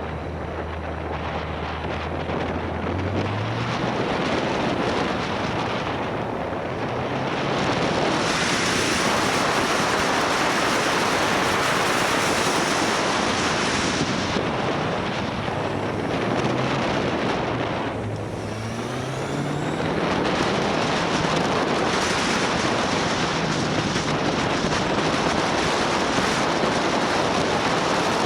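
Motorcycle riding at speed: heavy wind noise on the microphone, with the motorbike's engine faintly underneath, its pitch rising a few seconds in and again about two-thirds of the way through as it revs.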